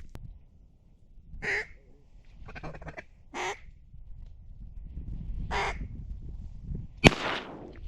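Three short, harsh bird-like calls about two seconds apart, followed near the end by a single sharp, loud bang.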